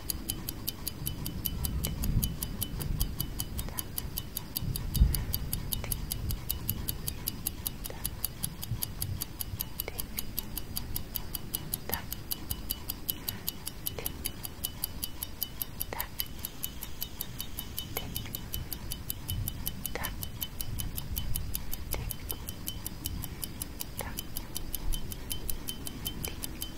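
Clock tick-tock sound effect: a fast, even ticking, with a softer, lower stroke about every two seconds, over a low rumble.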